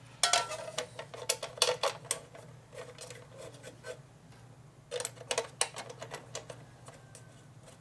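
Steel bolts and hand tools clicking and clinking against a metal bracket while bolts are test-fitted, in two bursts of quick clicks over a steady low hum.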